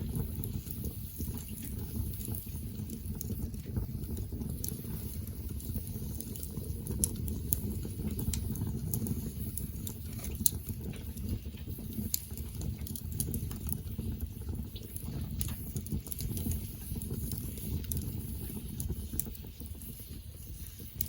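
Wood campfire burning, crackling with scattered sharp pops over a low, steady rumble.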